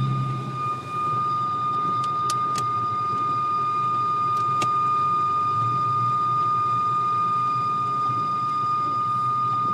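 A MkV Volkswagen Golf R32 on the move with a steady high-pitched squeal, one held tone, over the engine and road rumble in the cabin, and a few sharp clicks between about two and five seconds in. The occupants think it sounds like metal rubbing, most likely the brakes, though they also suspect the all-wheel-drive system or the transmission.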